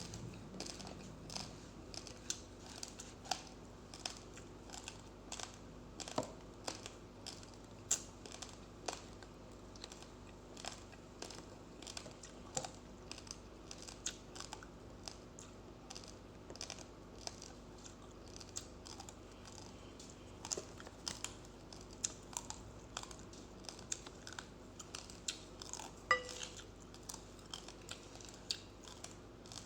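A person chewing uncooked rice grains close to the microphone: irregular sharp crunches, a few a second.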